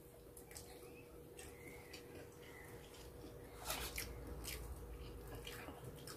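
Faint eating sounds: chewing with scattered soft clicks, a little louder in the latter part, and near the end soft squishing as tender roast chicken is pulled apart by hand.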